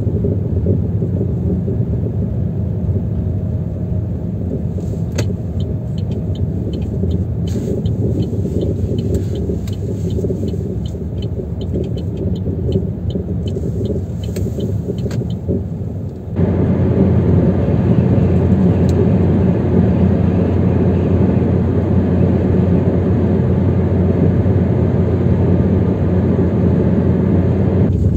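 Chevrolet Aveo T300 driving over a rough road, heard inside the cabin: a steady low rumbling drone from the front end, which the owner traces to the front brake calipers and pads rattling in their mounts. A run of light, regular ticks sits on top through the middle. About halfway through, the noise abruptly turns louder and fuller.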